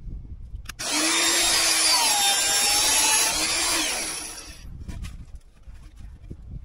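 Power tool running on steel for about four seconds, its pitch sagging and recovering as it is loaded, then stopping, followed by a few light knocks.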